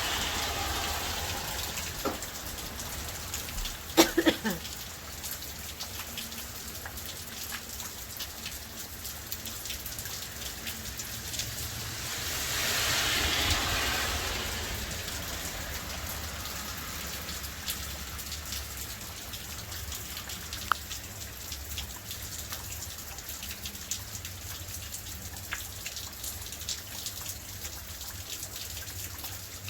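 Steady rain falling and pattering on surfaces, swelling louder for a few seconds around the middle. A single short, sharp sound stands out about four seconds in.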